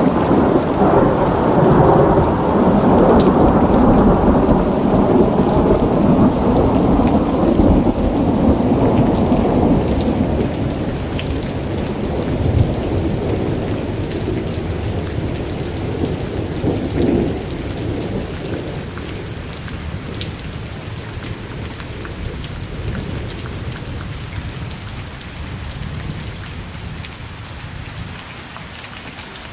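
Thunderstorm: a long rolling rumble of thunder, loudest in the first third, slowly dying away. Steady rain falls throughout, with scattered sharp drips.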